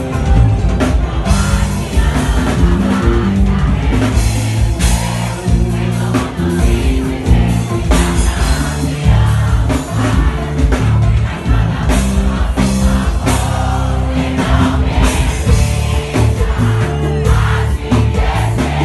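Live band playing amplified music with a singer during a full-band soundcheck: steady drum beat, bass and a singing voice over the PA.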